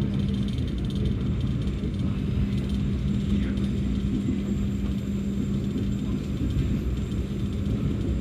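Passenger train running along the track: a steady low rumble with a constant hum.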